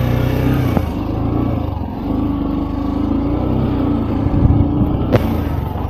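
Motorcycle engine running while riding, its pitch shifting up and down with speed. There is a sharp click about five seconds in.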